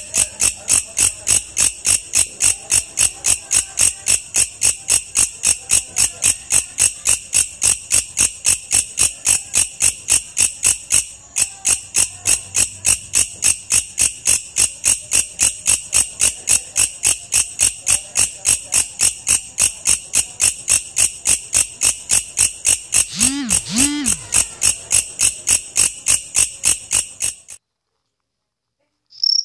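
An insect chirping in a fast, very even rhythm of about four pulses a second. It is a loud, shrill call that stops suddenly about two seconds before the end.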